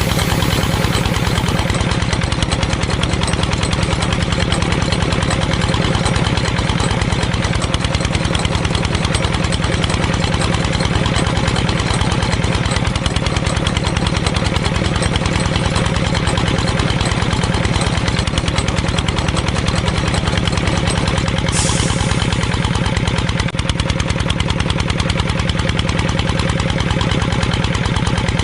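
Small engine of a DIY mini tractor running steadily at an even speed, with a fast regular pulse and a strong low hum.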